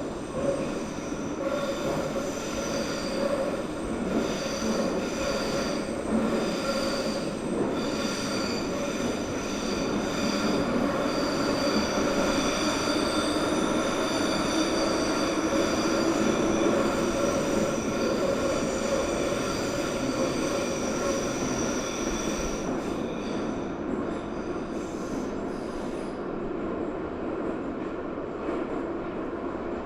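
Subway train running with its wheels squealing: several high, steady shrieking tones over the rumble. The squeal fades away about 23 seconds in, leaving the running noise.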